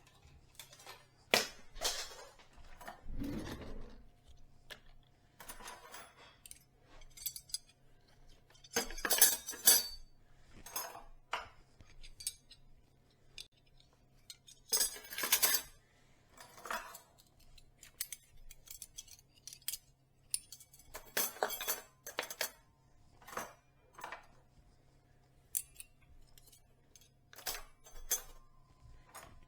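Dishes being washed by hand: plates, glasses and cutlery clinking and clattering at irregular intervals, with a low thump about three seconds in and a few longer noisy bursts of handling.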